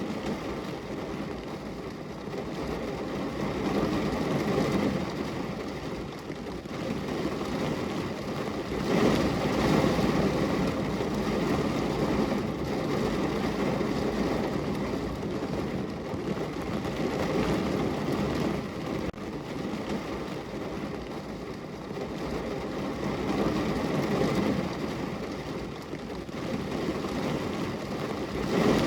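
Heavy rain falling on a car's roof and windows, heard from inside the car: a dense, even patter that swells and eases every few seconds.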